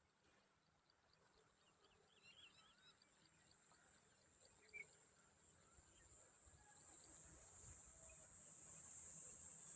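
Faint outdoor ambience: a steady high-pitched insect drone, like crickets or cicadas, growing louder toward the end, with a few faint bird chirps about two to three seconds in.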